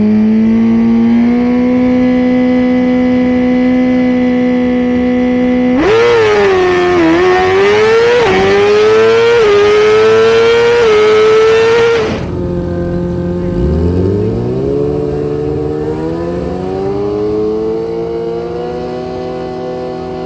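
Suzuki GSX-R 1000 inline-four drag bike with a Brock's exhaust, held at steady revs on the start line, then launched at full throttle about six seconds in. The engine pitch climbs with three or four quick dips at the upshifts through an eighth-mile pass. About twelve seconds in the throttle shuts off sharply and the engine drops to lower revs as the bike coasts.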